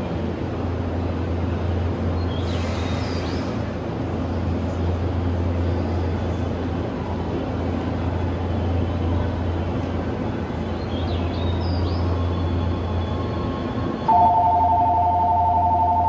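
Steady low hum of an E261 series train standing at the platform with its onboard equipment running, over station noise. About 14 seconds in, the platform departure signal starts: a loud electronic bell ringing on two steady pulsing tones.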